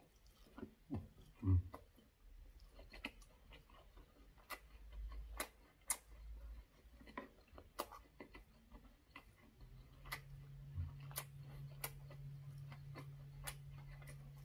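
Close-miked chewing of a mouthful of braised saury: faint, irregular wet mouth clicks and smacks. A low steady hum comes in about ten seconds in.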